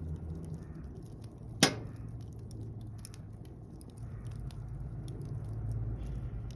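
Campfire of mixed conifer and broadleaf wood crackling, with scattered small snaps and one loud sharp pop about one and a half seconds in, over a low steady rumble.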